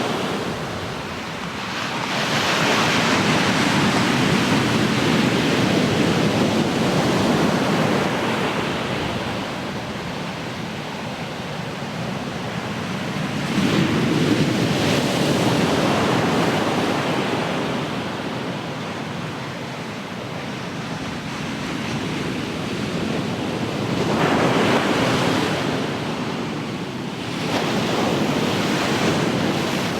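Ocean surf: waves breaking and washing up the shore in a continuous rush that swells louder and eases off as each wave comes in, four times.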